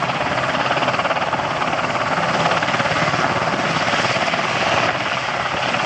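Westland Sea King helicopter, with twin Rolls-Royce Gnome turboshaft engines, flying past with its rotor and engines running in a steady, loud din.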